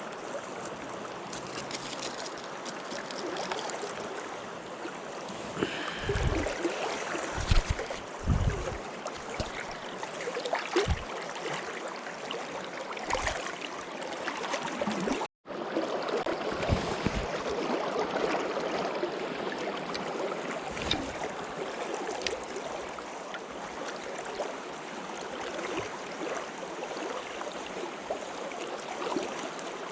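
Running water of a stream rushing steadily, with a few low thumps scattered through it. The sound cuts out for an instant about halfway.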